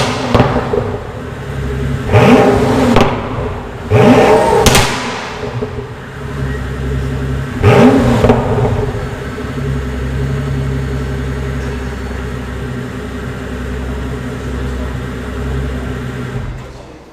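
Pagani Huayra Roadster's Mercedes-AMG twin-turbo V12 being blipped three times from idle. Each rev rises quickly and falls back, one with a sharp crack from the exhaust as it drops. The engine then settles into a steady idle until the sound cuts off just before the end.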